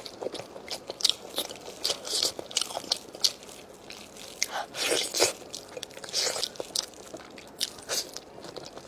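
Close-miked eating: a person biting and chewing food, with irregular crunches and wet mouth clicks several times a second.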